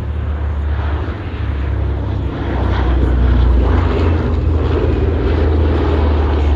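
Boeing B-17 Flying Fortress's four Wright Cyclone radial engines droning in a low fly-past, growing louder a few seconds in as the bomber passes close.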